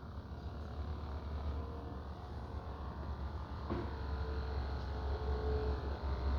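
Washing machine motor running with a steady low rumble and a faint whine, with a short knock a little past halfway.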